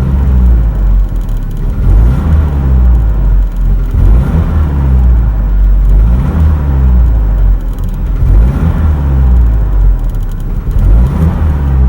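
UMZ-4216 four-cylinder petrol engine in a GAZelle Business being revved about five times, each rise and fall in pitch lasting a second or two, to bring out a piston knock under load. The knock comes from a worn-out engine with cracked piston skirts and stuck rings, the fourth piston the likeliest culprit, while the piston pins are fine.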